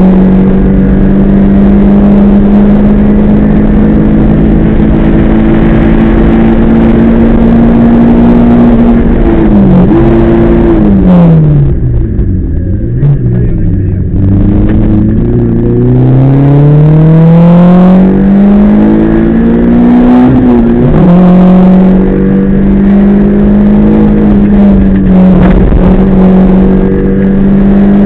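Rally car engine heard from inside the cockpit, holding high revs, then falling in steps as the car slows about a third of the way in. It bottoms out near halfway, climbs steadily through the revs, shifts gear and holds high revs again.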